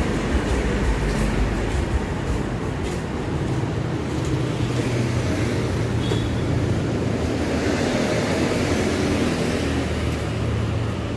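Street traffic: motor vehicle engines running steadily close by, a continuous low hum under road noise.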